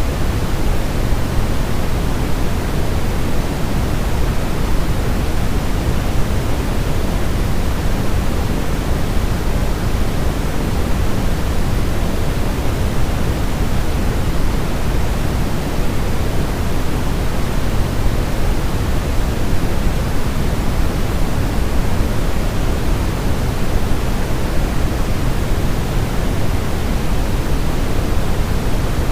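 Steady, unchanging sleep-aid noise for soothing a baby, an even hiss heavier in the low end than the highs, like pink noise.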